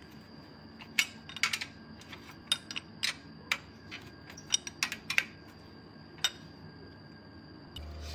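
Light sharp clicks and taps of small metal parts or tools being handled, about a dozen at irregular intervals, over a faint steady hum with a thin high whine. Near the end a louder, steady, pitched sound starts.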